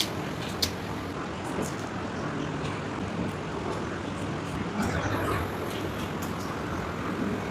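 Steady background noise with a few sharp clicks, the loudest right at the start and another about half a second later.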